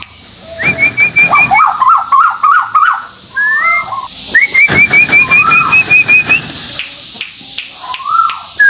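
Songbird song of the kind sold as a 'tuwu paruh putih' lure recording: quick runs of short, high, upward-flicking whistled notes, alternating with lower, rapid warbling phrases and a few slurred notes.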